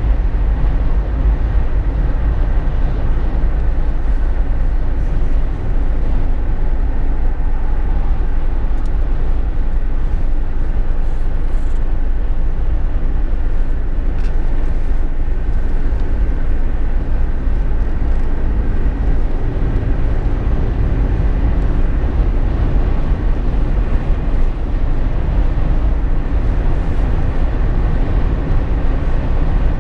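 Steady low rumble of a Jeep Wrangler JK on the move, heard inside its cabin: road, tyre, wind and engine noise blended together with no sudden changes.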